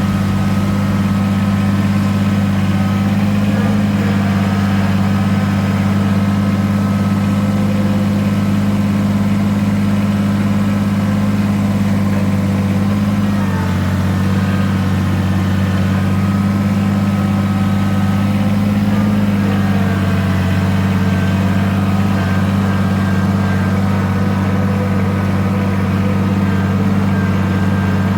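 An engine running steadily at an even speed, with a brief dip in pitch about halfway through.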